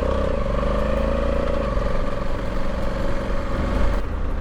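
Honda Africa Twin 1100's parallel-twin engine pulling away, its note rising for about the first second and a half and then running steady.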